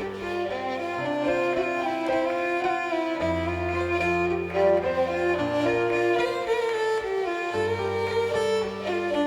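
Live contra dance band playing a fiddle-led dance tune over held bass notes that change every second or two.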